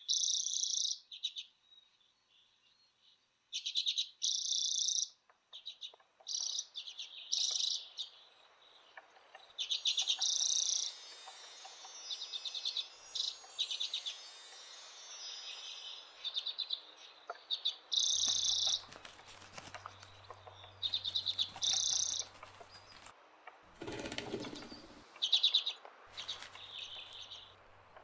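Small songbirds calling in repeated short trilling bursts, with a stretch of faster twittering in the middle. A low steady hum comes in about two-thirds of the way through.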